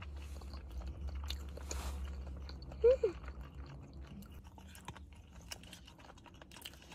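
Close-up chewing of takoyaki, with many small wet mouth clicks. About three seconds in comes one short, falling vocal sound.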